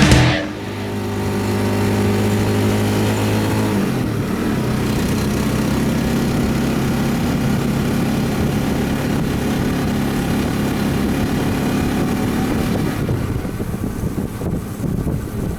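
Motorcycle engine running steadily, its note dropping slightly a few seconds in.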